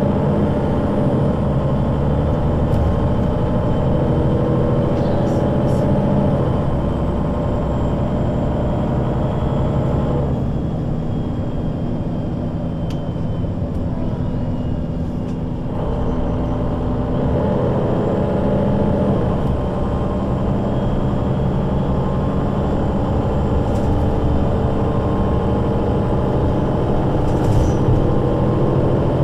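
Solaris Urbino 12 III city bus with a Voith automatic gearbox, driving, its engine running throughout. Its note eases off and quietens for about five seconds in the middle, then builds again.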